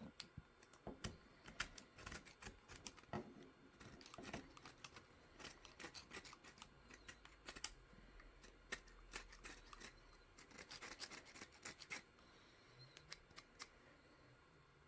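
Plastic support material being snipped and picked off a 3D-printed part: a dense run of small clicks and snaps that stops about twelve seconds in.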